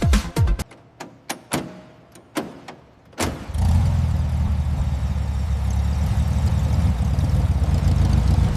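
Porsche 550 Spyder's flat-four engine starting: it fires with a sharp bang about three seconds in, then runs at a steady low idle.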